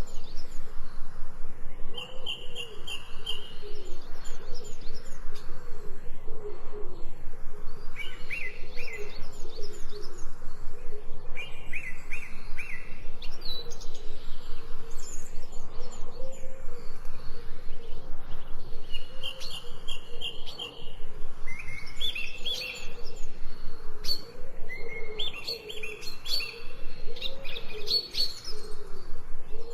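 Birdsong from several birds: short, high, trilled chirping phrases repeat every few seconds over a lower, wavering call that runs throughout.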